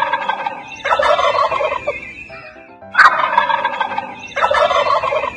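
Turkey gobbling: two gobbles about a second long each, then the same pair again about three seconds in.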